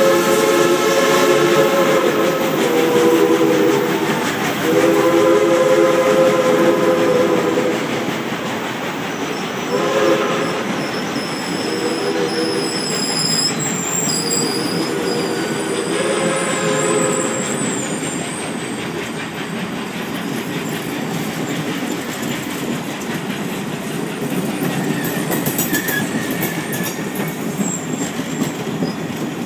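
A passing passenger train's locomotive sounds a chord of several notes in a series of long and short blasts for the first eighteen seconds or so. Under it, and alone after it, the passenger cars roll by with the clickety-clack of wheels on the rails.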